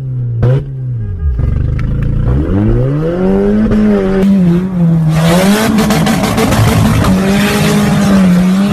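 Car engine revving hard: its pitch sags about a second in, then climbs and holds high with small rises and dips. A harsh rushing noise joins about halfway through.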